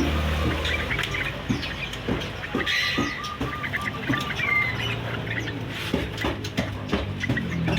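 Caged birds chirping and calling in short, overlapping notes, with a short run of repeated notes in the middle. A low steady hum runs underneath.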